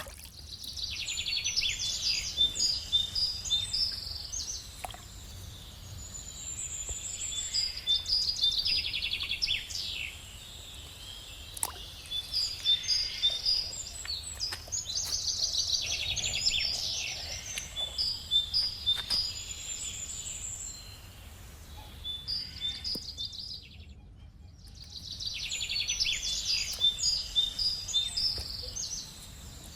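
A songbird singing phrases of rapid chirping notes, repeated every few seconds with short pauses between them, over a steady low background rumble.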